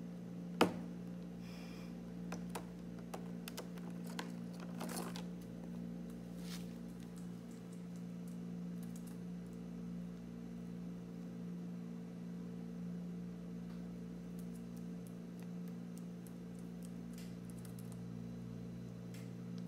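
A cockatiel tapping and scratching at a cardboard box of dates: scattered light clicks, the loudest about half a second in, over a steady low electrical hum.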